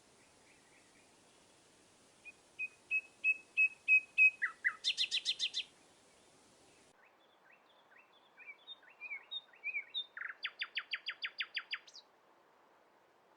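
Songbirds singing: two song phrases, each a run of clear chirped notes that speeds up into a rapid trill, the second phrase starting about halfway through.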